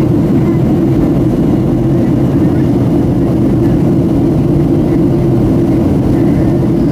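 Steady, loud cabin drone of a Boeing 737-700 in flight, the noise of its engines and the airflow over the fuselage heard from a passenger seat.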